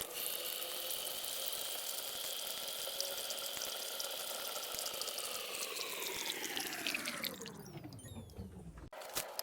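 Countertop reverse-osmosis water dispenser running water into a cup, with the steady hum of its pump. From about five seconds in the whole sound slides down in pitch and then cuts off abruptly.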